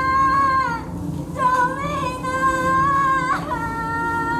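A song with a high singing voice holding long, slightly wavering notes, broken by short breaks, over a steady low accompaniment.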